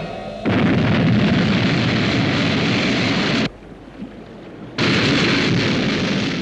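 Sky 1 interceptor's rocket launch sound effect: a loud, dense rushing noise. It cuts out abruptly for about a second in the middle and then comes back.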